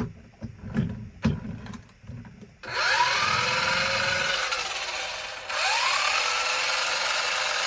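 A vintage RC car's small electric motor and gears spinning up to a loud, high whir with a rising whine. It cuts out briefly about five seconds in and spins up again, after a few light knocks of handling at the start.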